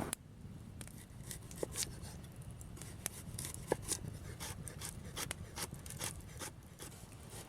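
Irregular small clicks, scrapes and rustles of hands working with materials, with a few light knocks.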